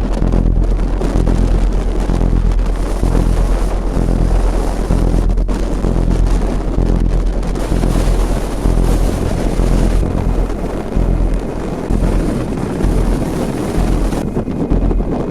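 Gale-force Arctic wind of around 25 metres per second buffeting the microphone as a loud, deep rumble that surges in gusts.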